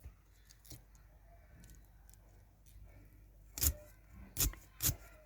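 Radish greens being chopped: faint cutting noises, then three sharp knocks about half a second apart in the second half.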